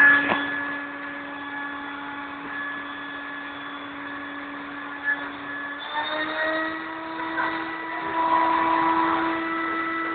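Vacuum cleaner motor running with a steady whine; its pitch steps up a little about six seconds in.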